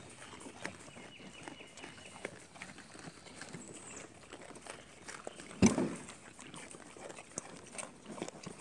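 Goats chewing and crunching watermelon pieces: a scatter of small, irregular clicks and crunches, with one louder knock a little past halfway.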